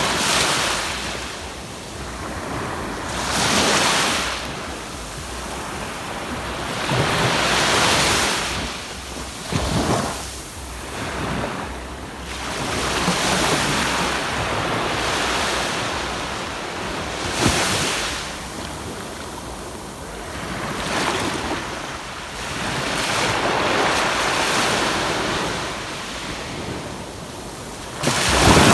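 Sea waves breaking and washing up a sandy beach, the surf rising and falling every few seconds with a few sharper crashes, and wind on the microphone adding a low rumble.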